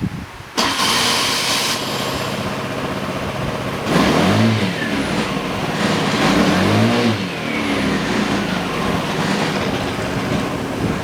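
Gilera Runner ST200 scooter's single-cylinder four-stroke engine starting abruptly less than a second in, then idling. Its revs rise and fall twice, about four and six seconds in, before it settles back to idle.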